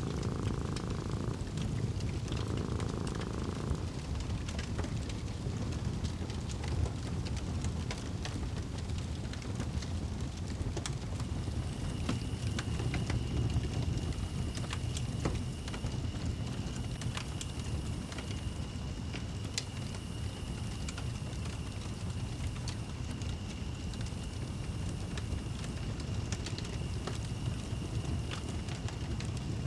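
Wood fire burning in a fireplace: a steady low rumble of flames with frequent small crackles and pops. A faint steady high tone joins about twelve seconds in.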